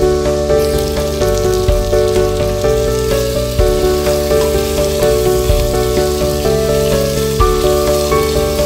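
Sliced onions and chicken sizzling in hot oil in a pressure cooker. The sizzle picks up about half a second in as the onions go in. Background instrumental music plays throughout.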